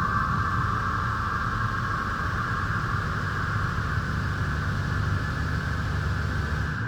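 Christ Varius automatic car wash running: a steady rushing noise of the wash machinery and water over a low rumble, easing slightly over a few seconds.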